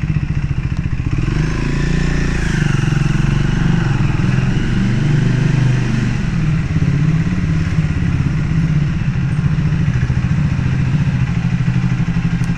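Triumph Speed 400's single-cylinder engine running steadily, its note rising and easing a little about two seconds in.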